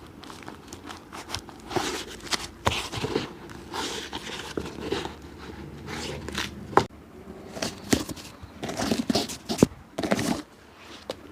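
Hand work on a leather shoe: irregular scraping and rubbing strokes broken by a few sharp clicks or taps.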